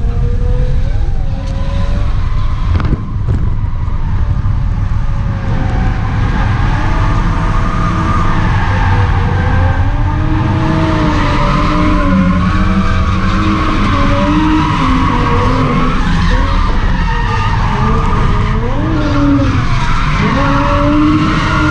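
Volvo 740 turbo's four-cylinder engine revving up and down repeatedly while the car drifts, its tyres squealing and skidding throughout.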